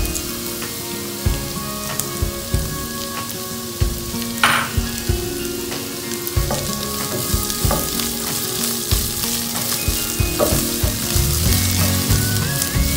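Freshly added sliced onion sizzling in hot oil in a nonstick wok, with a silicone spatula stirring and scraping against the pan in short knocks.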